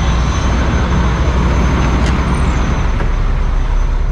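Steady rumble of idling diesel trucks, with a couple of faint clicks about two and three seconds in.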